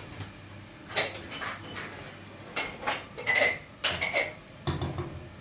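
Dishes clinking as they are handled: a quick string of sharp, ringing clinks over about three seconds, then a duller knock near the end.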